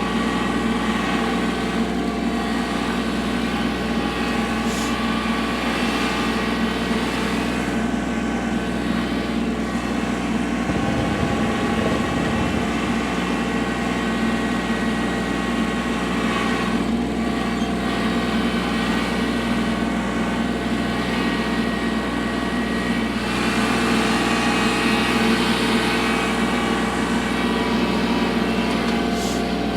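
Kubota L3301 tractor's three-cylinder diesel engine running steadily, a little louder for a few seconds past the middle.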